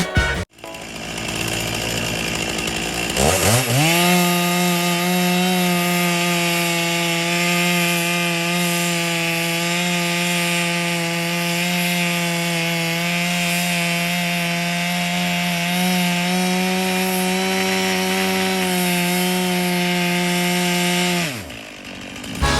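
Chainsaw on an Alaskan mill ripping a fir log lengthwise into a beam: it revs up quickly about three seconds in, holds a steady high pitch under load through the long cut, then drops off as the throttle is released near the end.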